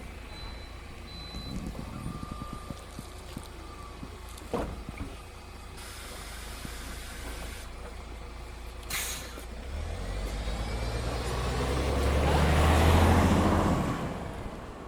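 MAN Lion's City 19C EfficientHybrid bus: a short burst of compressed-air hiss about nine seconds in, then the engine note builds up, is loudest near the end, and dies away again.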